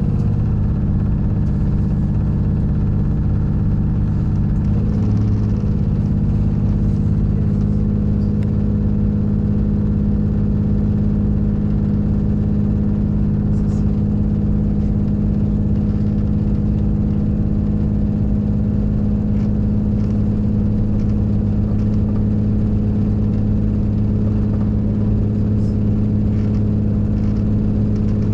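Regional train heard from inside the carriage while under way: a steady engine hum and running noise, which shifts in pitch about five seconds in, with a few faint clicks.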